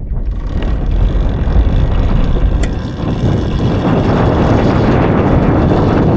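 Wind rushing and buffeting on the microphone with tyre rumble as an electric dirt bike rides along, growing louder in the first second and then holding steady.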